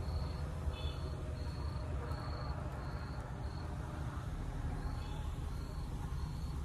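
Log fire burning with a steady low rumble, under a high cricket-like chirp repeating about one and a half times a second.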